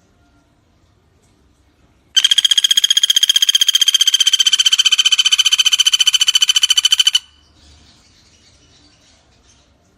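Common flameback woodpecker (pelatuk bawang) giving one long, rapid rattling trill of about five seconds, starting and stopping sharply, from about two seconds in.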